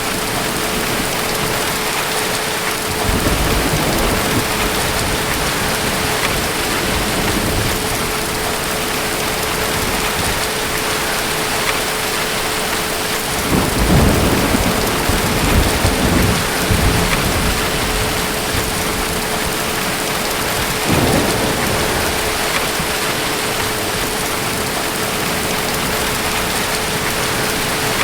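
Steady heavy rain with rolls of distant thunder: a short low rumble about three seconds in, the loudest and longest one about halfway through lasting a few seconds, and another brief rumble about three quarters of the way through.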